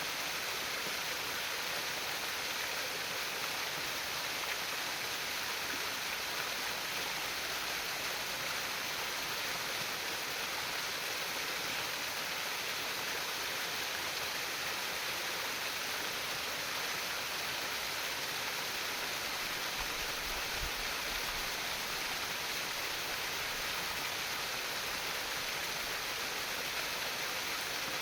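Stream water babbling and trickling over stones in a steady, even rush.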